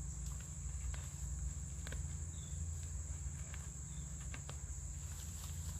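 Steady, high-pitched chirring of crickets in the garden, with a low rumble underneath. A few faint scattered clicks of hands digging in the soil come through.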